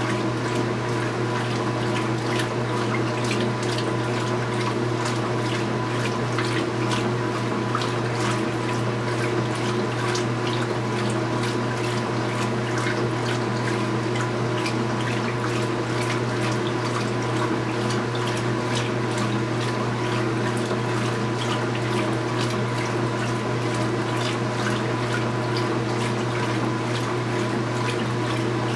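2015 Speed Queen 8 Series top-load washing machine with water splashing and swishing in its tub over a steady machine hum.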